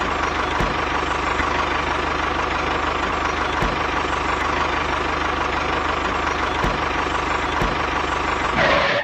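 Small engine running steadily at an even speed, with a steady whine over it.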